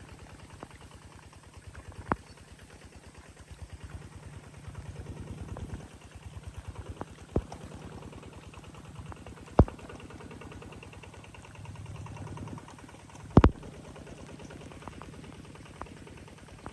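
A small engine running steadily with a fast, even beat, louder for a couple of stretches, with a few sharp knocks, the loudest about ten and thirteen seconds in.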